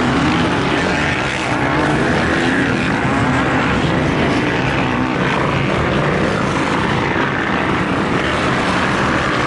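Motocross bike engines running, several at once, making a steady, dense engine drone with no single bike standing out.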